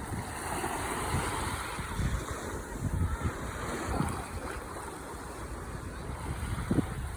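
Ocean waves breaking and washing on a shore, a surging wash of surf. Low rumbling gusts of wind buffet the microphone.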